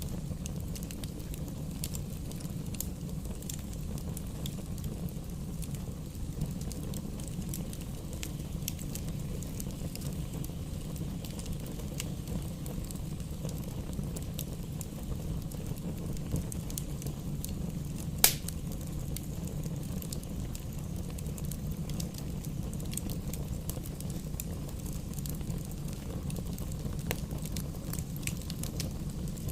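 Wood campfire burning with a steady low rumble and scattered small crackles, and one sharp, louder pop about two-thirds of the way through.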